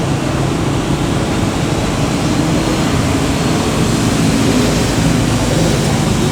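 A loud, steady rushing noise with a low hum underneath, without any distinct knocks or calls.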